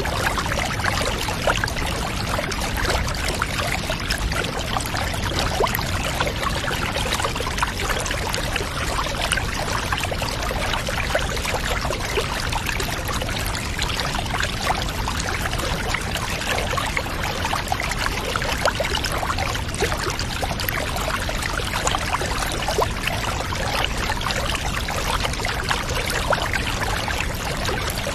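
Water running and splashing in a steady, unchanging stream, as from a tap filling a bath.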